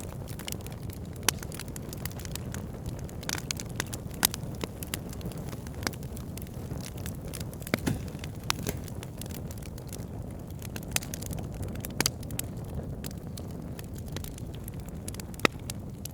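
Wood fire burning, a steady low rumble of flames under frequent sharp crackles and pops from the logs, with a few louder snaps scattered through.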